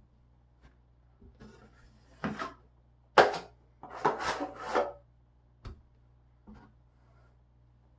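Drywall knife scraping joint compound: a handful of short, rasping scrape strokes, the loudest bunched together near the middle, with a few fainter scrapes before and after.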